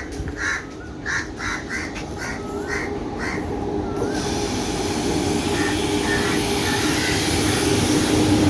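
A train approaching, its rumble and low hum growing steadily louder through the second half. Over the first four seconds there is a quick run of about eight short repeated calls.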